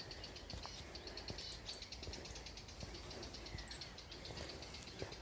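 Small birds singing and chirping: a rapid, continuous run of high chirps with a couple of short, higher whistles. A low wind rumble on the microphone underlies it.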